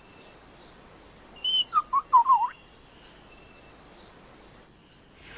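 A bird calling over a faint background of distant bird calls: about one and a half seconds in, a short burst of loud whistled notes, a brief high note followed by several quick notes that dip and rise in pitch.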